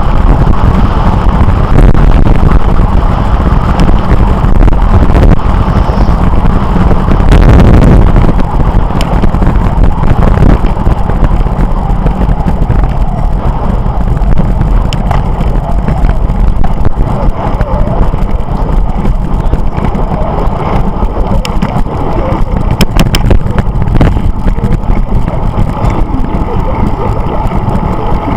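Steady wind rumble on the microphone of a camera moving along a road, mixed with road noise, with a few faint clicks.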